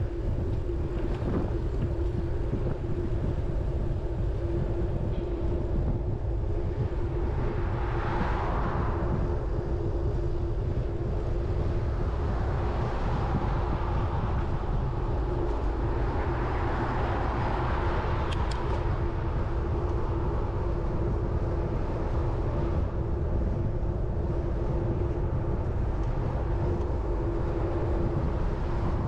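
Steady wind rumble on the microphone of a moving road bike, with a constant hum running underneath. Motor traffic swells past twice, about a third of the way in and again just past halfway.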